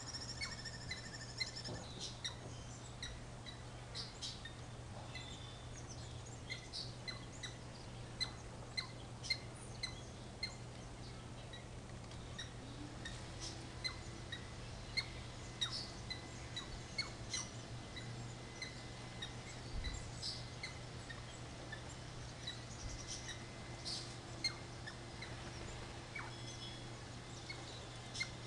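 Small birds chirping in short, scattered chirps, over a steady low hum.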